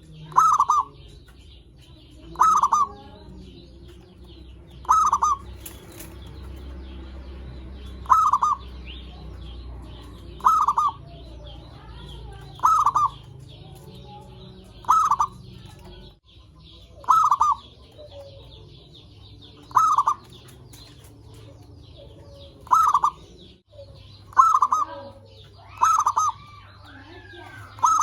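Zebra dove (perkutut) cooing: a short call repeated about every two seconds, over a faint steady chirring in the background.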